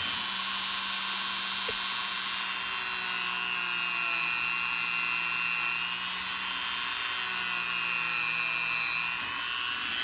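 Small rotary tool spinning an abrasive bit, a steady high whine whose pitch dips slightly under load as it grinds and cleans up the edge of a 14k gold bezel.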